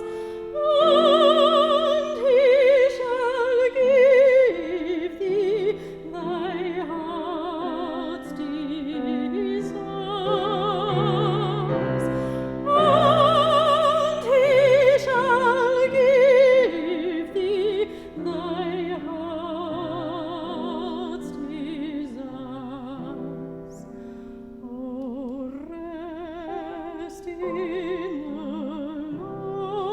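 Classical solo singing with a wide vibrato, moving through a melody over steady held accompanying notes.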